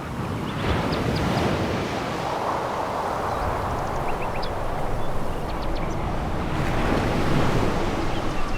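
Sea waves breaking and washing over a pebble beach. The wash swells twice, once just under a second in and again near the end, with small sharp clicks scattered through it.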